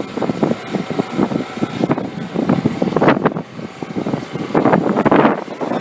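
A car running close by, its sound rising and falling unevenly.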